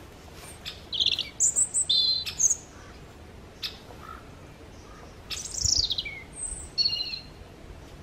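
Small birds calling: bright chirping notes in two bouts, about a second in and again from about five seconds, the second bout opening with a fast falling note. A few single sharp taps fall between the calls.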